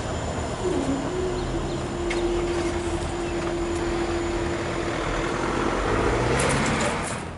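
Diesel multiple unit moving slowly along the platform, its engine giving a steady hum over a low rumble; the hum comes in with a short glide about a second in and fades out near the end. A few sharp clicks follow just before the sound cuts off.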